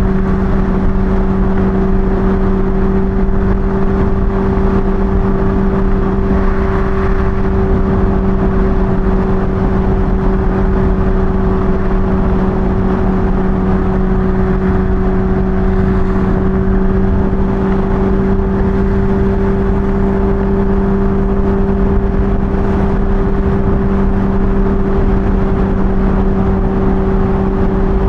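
Kawasaki Ninja H2 inline-four engine running at a steady speed under cruise, holding one even pitch throughout, with heavy wind rush over it.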